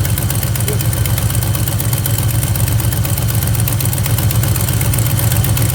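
1976 Plymouth Gran Fury wagon's engine idling steadily with a constant low hum, heard up close under the open hood. The owner suspects it may still have a slight exhaust leak but cannot find one.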